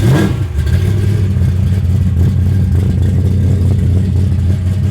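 Loud street muscle-car engine idling steadily, after a quick throttle blip right at the start.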